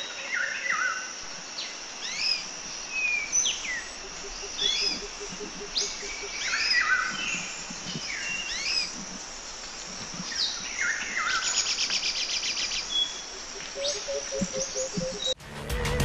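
Several birds calling, with repeated short sweeping chirps and a fast trill about three quarters of the way through, over a steady hiss of outdoor ambience. Near the end it cuts abruptly to loud music.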